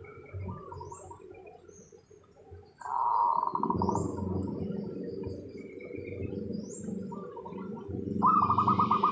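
Zebra dove (perkutut) calling: a low, rolling coo begins about three seconds in, and near the end it breaks into a fast run of sharp repeated notes, about seven a second. Faint high chirps of small birds sound in the background.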